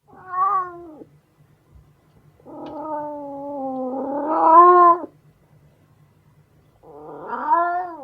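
A domestic cat meowing three times: a short meow, then a long drawn-out one that rises in pitch near its end, then another short meow.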